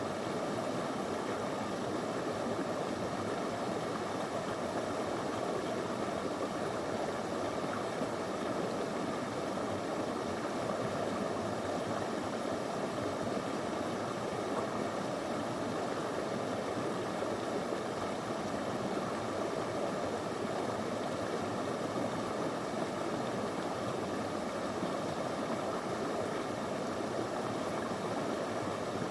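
Small, shallow river flowing over stones: a steady, even rush and babble of water.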